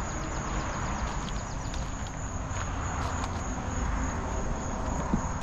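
Outdoor ambience: a steady high trill of insects over a constant low rumble.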